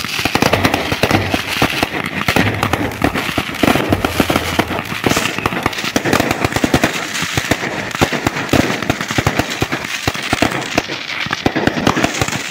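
Fireworks going off in a dense, unbroken barrage of sharp pops and crackles, as rockets launch and burst overhead into crackling sparks.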